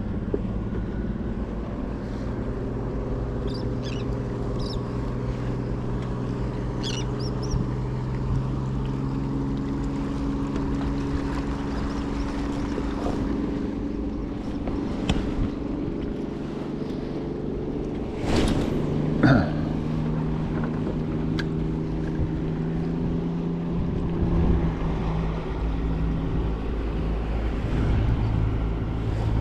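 Boat engine running in a low, steady drone whose pitch shifts now and then, with a couple of knocks about two-thirds of the way through.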